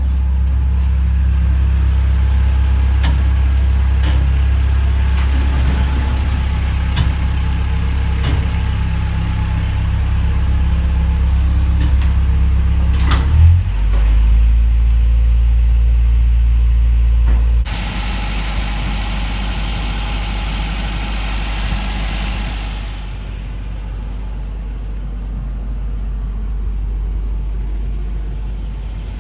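1995 Toyota TownAce truck's engine idling steadily. About 13 s in there is a click and the idle drops to a lower pitch. Past the middle the sound changes suddenly to a steady hiss for about five seconds, then a quieter rumble.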